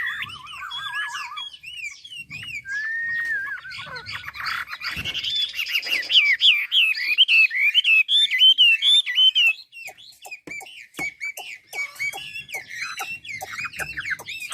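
Chinese hwamei singing a long, varied song of whistled phrases and fast trills, with a run of short sharp clicking notes in the second half.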